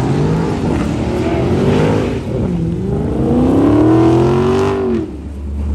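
Car engine revving hard, climbing and falling in pitch about three times, highest near four seconds in, then letting off just before the end to a low rumble.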